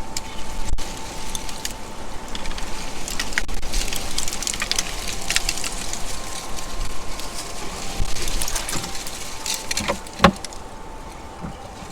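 Squirrels feeding at a backyard feeder: a dense run of small crackles and clicks, like nut shells being gnawed and claws scrabbling on the platform, with one sharp knock about ten seconds in.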